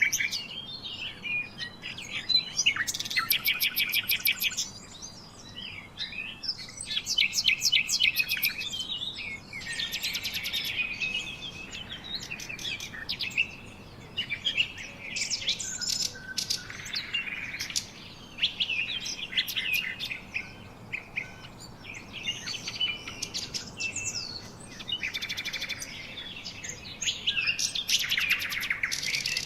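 Several songbirds chirping and singing, their calls overlapping, with bursts of fast repeated trilled notes recurring every few seconds.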